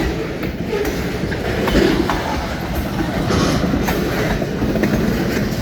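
Cars of a long train rolling past at close range: a steady, loud rumble with wheel clatter on the track.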